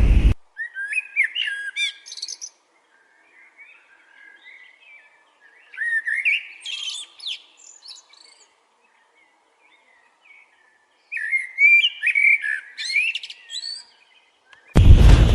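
A small bird chirping and twittering in three bouts of quick, sliding notes, with quiet gaps between them. A brief loud rush of noise at the very start and another near the end.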